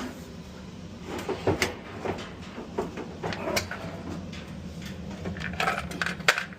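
Irregular clicks, knocks and light metallic clatter as a dryer part is unfastened and taken off.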